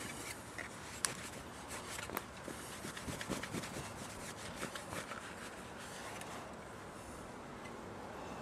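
A towel rubbing and wiping over a chrome exhaust part to clear off the cola after foil scrubbing, an irregular rustling with a few light ticks about one and two seconds in.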